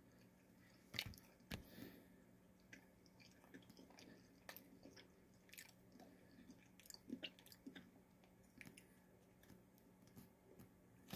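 Quiet chewing and biting of a crispy baked snack stick (Tombstone Beefy Taco Stix), with two sharper crunches about a second in and smaller irregular crunches after.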